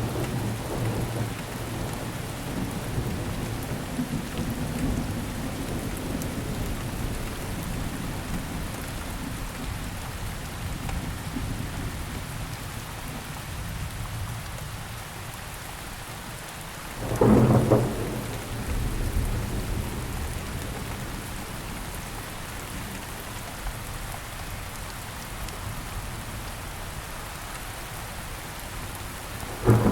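Steady rain with low rolling thunder. A loud thunderclap breaks in a little past halfway, and another just at the end.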